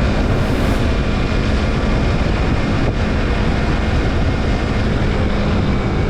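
Yamaha MT-25's 249 cc parallel-twin engine running at a steady, unchanging pitch through an Akrapovic slip-on exhaust with silencer.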